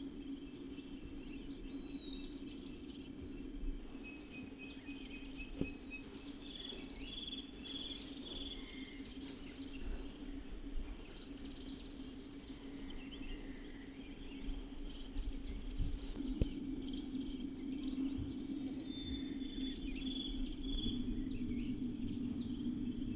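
Several songbirds chirping and calling in short, quick phrases, over a steady low outdoor hum. A couple of soft knocks stand out, one about five seconds in and one past the middle.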